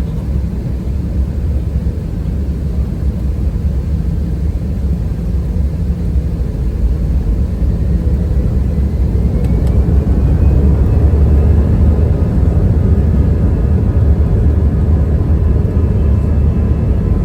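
Airbus A320-214's CFM56 jet engines heard from inside the cabin, a steady low rumble; about eight seconds in, a whine rises in pitch and the engines grow louder as they spool up.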